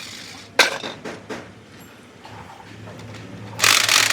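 Workshop tool sounds: a sharp metal knock about half a second in and a few lighter knocks, then a loud, even rushing noise that starts near the end.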